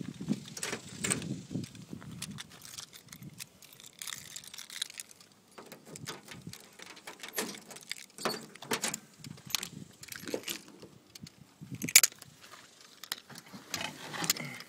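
Keys jangling amid irregular clicks and knocks, with one sharp knock a couple of seconds before the end. No engine is running.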